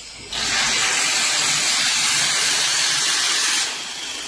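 A loud, steady hiss that starts abruptly just after the start and cuts off suddenly after about three and a half seconds.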